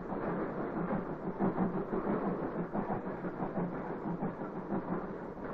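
Goods train running along the track: a steady rumble with irregular clacks of the wheels over rail joints and points.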